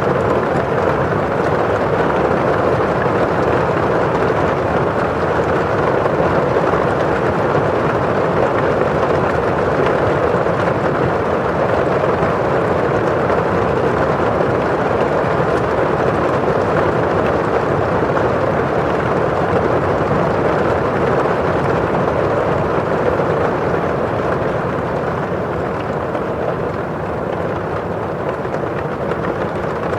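Steady rain on a window pane: an even hiss of drops on the glass, with rain rustling outside. It is a little softer for a few seconds near the end.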